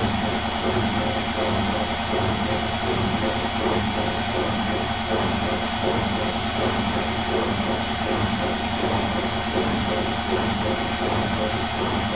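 ATLANT 50U101 washing machine running its express cycle: a steady, even motor drone with a regular pulsing underneath.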